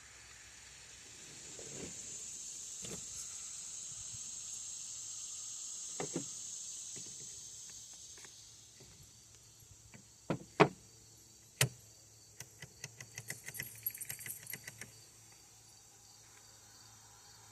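A steady hiss for several seconds, then a few sharp knocks and a quick run of small clicks as chainsaw parts and hand tools are handled during reassembly.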